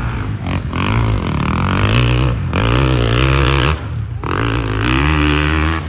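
Off-road racing engine revving hard in repeated bursts, its pitch climbing and falling, with short breaks about two and a half and four seconds in.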